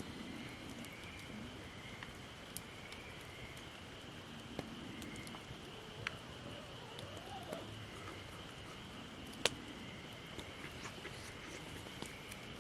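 Wood campfire crackling, with scattered sharp pops, the loudest about nine and a half seconds in, over a steady high chirring in the background.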